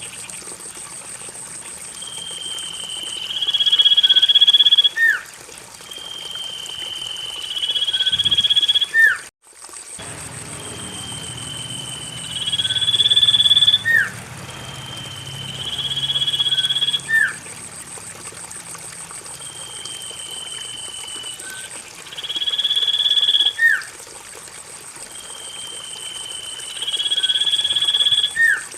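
Common iora (cipoh) call repeated about every four and a half seconds, as in a looped lure recording. Each call is a long whistled note that steps up in pitch, with a short upward-sweeping note below it. A steady thin high whine runs under it, and there is a brief dropout about nine seconds in.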